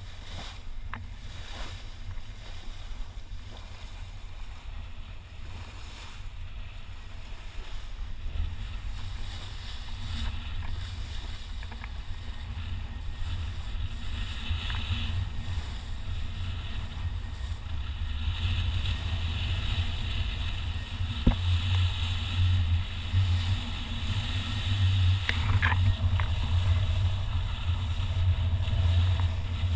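Wind and water noise aboard an Amel Super Maramu sailboat under way, over a low rumble that grows louder about two-thirds of the way through, with one sharp click shortly after.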